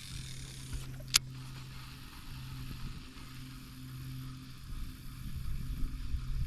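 A boat motor runs with a steady low hum. There is a sharp click about a second in, and low, uneven water noise builds near the end.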